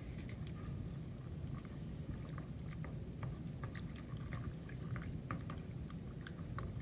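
Mashed banana being scraped in and stirred into a wet batter in a mixing bowl: soft wet squishing with many small scattered clicks of the utensil, over a low steady rumble.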